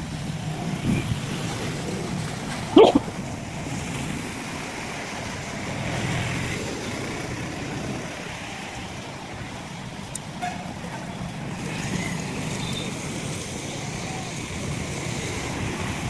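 Steady noise of heavy rain with vehicles passing on wet roads. A brief, loud, sharp sound about three seconds in.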